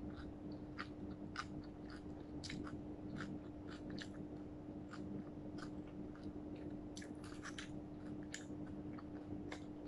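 Close-miked mouth chewing and biting a crispy fried roll: irregular small clicks and crunches, a few every second, with a steady low hum underneath.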